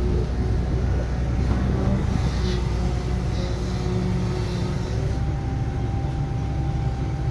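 Diesel engine of heavy construction machinery running steadily, its pitch shifting slightly about five seconds in.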